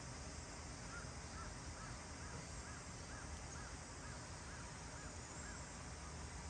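Steady faint hiss, with a bird calling a run of about ten short, evenly spaced chirps, roughly two a second, through the middle of the stretch.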